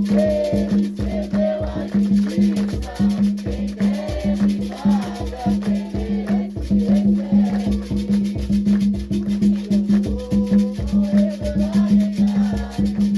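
Afro-Brazilian religious music: drums and shaker keep a fast, even rhythm while voices sing a chant over it.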